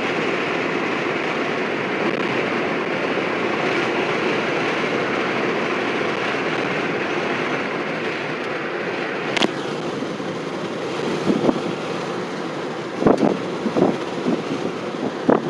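Steady road and engine noise heard from inside a moving fire department vehicle. In the last few seconds there are several short knocks and clicks.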